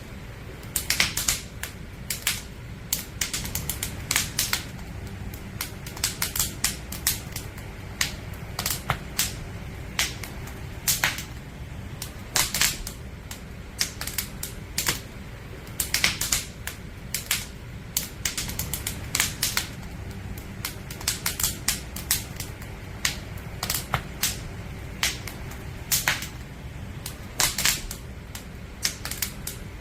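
Firewood burning in a campfire, crackling and popping: irregular sharp snaps, often several in quick clusters, over a steady low rumble.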